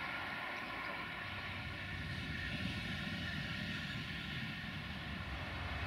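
Distant diesel train running: a steady engine drone with a low rumble that builds toward the end.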